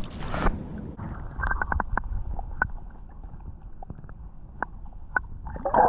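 River water splashing and moving around a wading angler. There is a short splash right at the start, a low steady rumble of water and wind on the microphone, scattered light clicks, and another splashy burst near the end.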